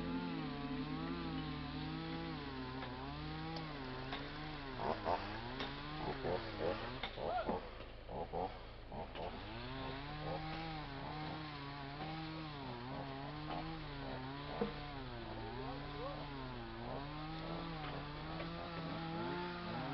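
Chainsaw cutting firewood logs, its engine pitch rising and falling over and over as it bites into the wood and eases off, with a rougher, uneven stretch about a quarter of the way through.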